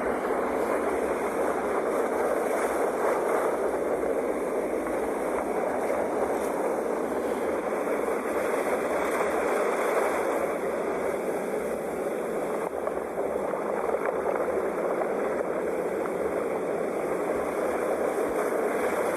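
Sea waves washing continuously as a steady surf, swelling slightly about ten seconds in and easing a little soon after.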